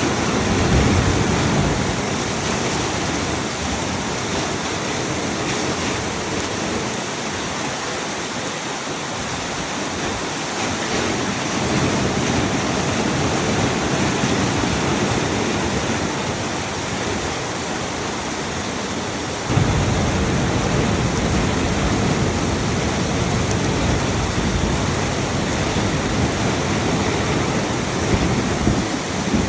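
Very heavy cloudburst rain pouring down in a steady, dense hiss. About two-thirds of the way through it suddenly grows louder and deeper and stays that way.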